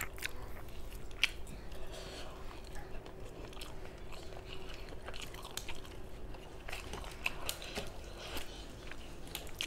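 Close-up mouth sounds of a person chewing rice and prawn curry, with scattered wet smacks and clicks, along with the soft squish of fingers mixing rice on a steel plate.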